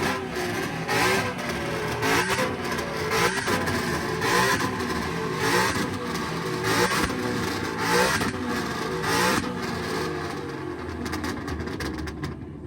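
Two car engines being revved hard at the same time, in sharp repeated blips about once a second, each climbing and falling in pitch; the revving stops near the end.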